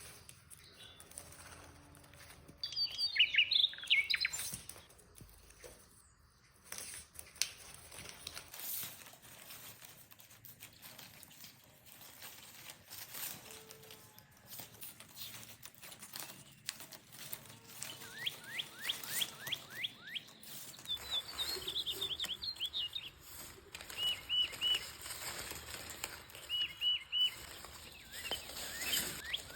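Small birds chirping and calling: a quick burst of high chirps about three seconds in, a rapid run of falling chirps later on, then short repeated trills toward the end. Scattered clicks and taps sound between the calls.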